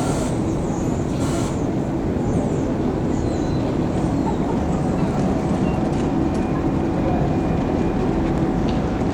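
Steady low rumble of a moving vehicle, with a brief hiss about a second in.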